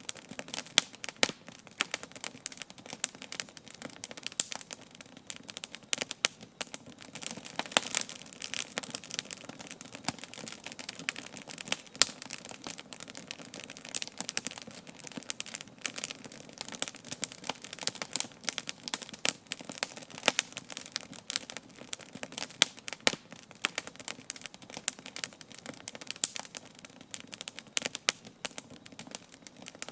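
Wood campfire crackling as it burns, with irregular sharp pops and snaps several times a second.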